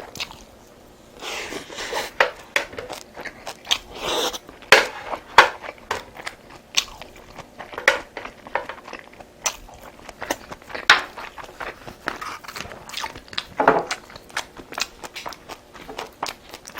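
Close-miked eating: chewing, biting and crunching mouth sounds with many short wet clicks and smacks, starting about a second in.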